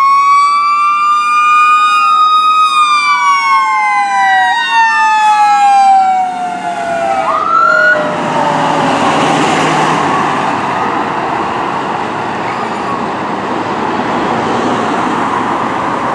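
Sirens of responding fire apparatus, two tones sweeping up and down over each other, one sliding steadily lower as it passes. The sirens stop about eight seconds in, leaving a steady rush of passing traffic noise.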